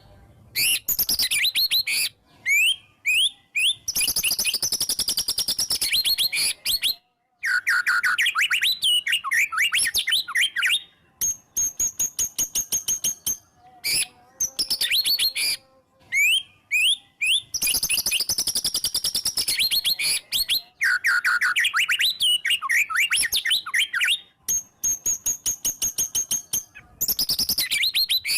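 White-rumped shama (murai batu) in full, excited song: long phrases of rapid, sharp staccato notes and quick trills, broken by short high steady whistles, with brief pauses between phrases.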